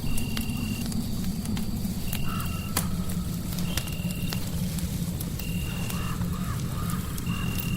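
Crackling fireplace: scattered sharp pops and crackles over a steady low rumble. A short, high, steady tone repeats about every second and a half, and a faint wavering call comes in twice.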